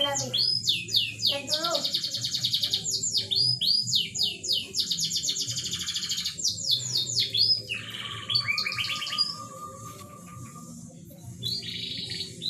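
Canary song: long runs of fast trills and rapid repeated chirps with sweeping notes, and a lower held note with trilling over it about eight seconds in.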